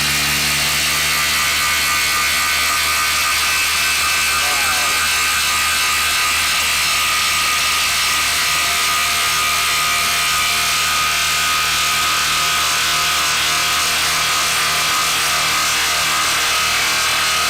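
Milwaukee M18 FUEL cordless impact driver hammering without a break under full load as it drives a 10-inch fastener.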